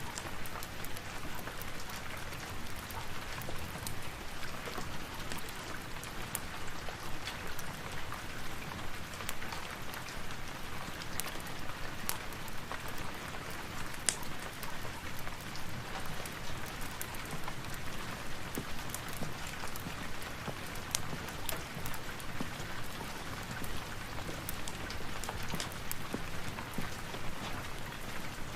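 Steady rain with scattered sharp crackles and pops from a fireplace fire.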